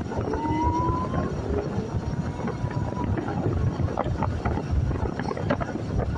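Wind buffeting the microphone, a gusty low rumble throughout, with a faint thin whistle-like tone rising slightly in the first second or so.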